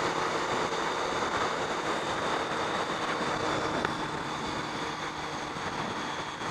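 Steady wind rush and the drone of a 2006 Honda CBR F4i's inline-four engine at cruise, heard from a helmet-mounted camera while riding, easing off slightly in the second half.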